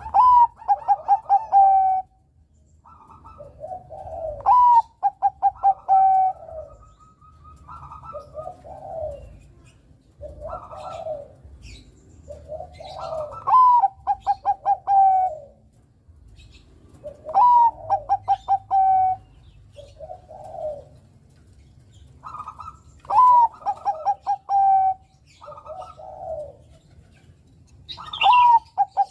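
Zebra dove (perkutut, Bangkok song line) cooing. It repeats its song phrase about every four to five seconds, each phrase a rising note followed by a quick run of short staccato coos, with softer, lower coos in between.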